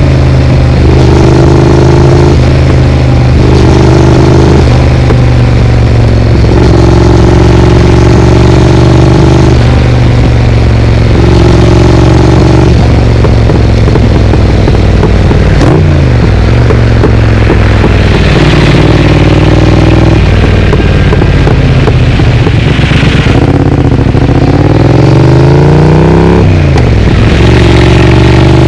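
Triumph Speed Twin parallel-twin engine running through an aftermarket Vance & Hines exhaust while riding in traffic, its pitch rising and falling as the throttle opens and closes.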